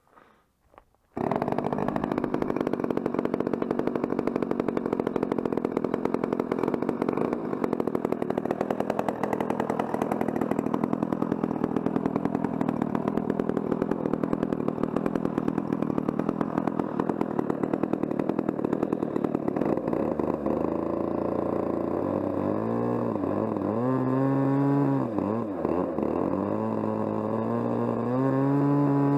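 Small two-stroke gasoline model-aircraft engine (RCGF 20cc) running loudly. It comes in suddenly about a second in and holds steady. In the last several seconds its pitch rises and falls repeatedly, as with throttle changes or the plane passing.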